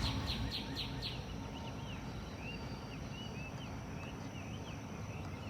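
Technical ink pen flicking short strokes across paper, a quick series of light scratches in the first second. After that comes a run of faint, short, high chirps over a steady low hum.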